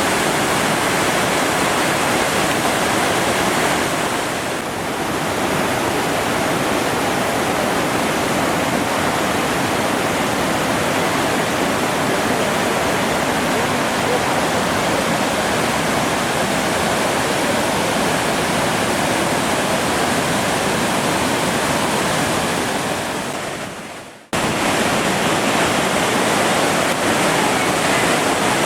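Waterfall: a loud, steady rush of falling water. It fades away about 24 seconds in and cuts straight back in at full strength.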